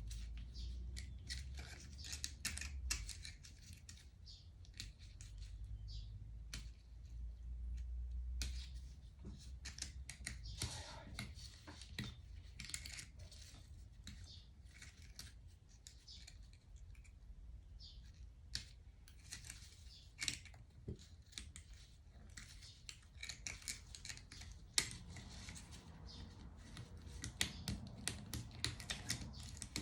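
Irregular small clicks, taps and rattles of hand tools and small metal engine parts being handled during a motorcycle engine teardown, over a faint low hum.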